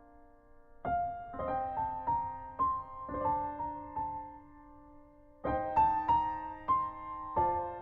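Soft background piano music: a slow melody of single struck notes in two phrases, with a short pause between them just past the middle.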